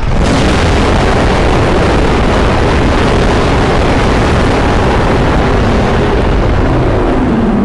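A custom-made monster roar sound effect for Galactus: a loud, steady, rumbling roar with a heavy low end. It starts suddenly, holds for over seven seconds, and begins to fade near the end.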